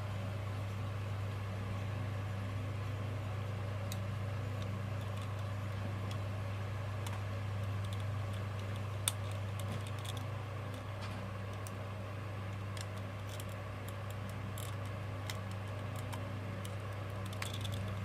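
Faint, scattered clicks of plastic toy parts being handled and fitted together, over a steady low hum; one sharper click comes about nine seconds in.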